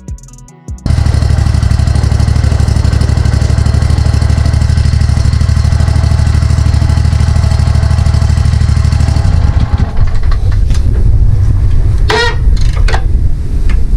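Mud buggy engine running steadily with a fast, even pulse. About two-thirds of the way through it turns rougher and more uneven, with a couple of sharp clattering noises.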